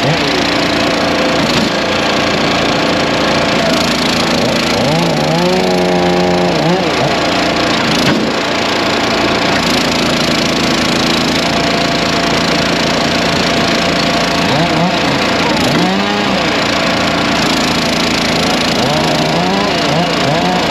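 Gas-engine log splitters and other small engines running together in a steady din, one engine's pitch dropping and climbing back several times. A sharp crack of wood comes about eight seconds in.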